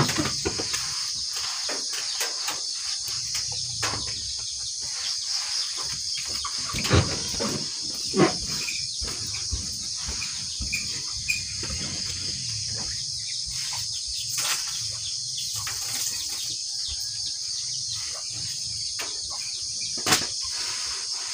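Steady high-pitched chirring of night insects throughout, with a few scattered knocks and thuds of household work.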